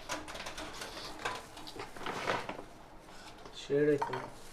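Cut dry grass being handled and placed in a birdcage as nesting material: soft rustling with scattered light clicks and taps. A short low voice sound comes near the end.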